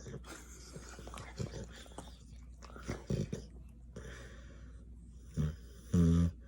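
A sleeping Rottweiler snoring and making dream noises: uneven breaths and short sounds, then one brief, loud, low-pitched sound near the end.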